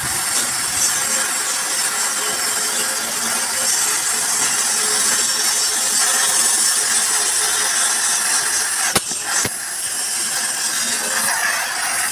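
Power tool running steadily on the truck cabin's sheet metal, a continuous harsh cutting or grinding noise that breaks off briefly about nine seconds in.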